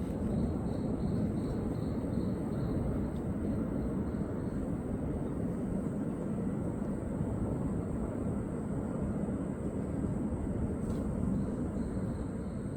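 Steady low rumbling outdoor background noise. A faint high chirping pulse repeats about three times a second for the first few seconds and again near the end.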